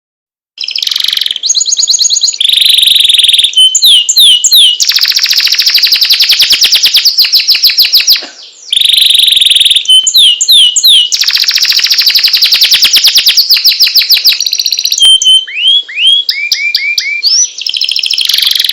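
Domestic canary singing: long runs of fast trills of repeated notes, broken by short slurred whistles. The song starts about half a second in and pauses briefly about eight seconds in.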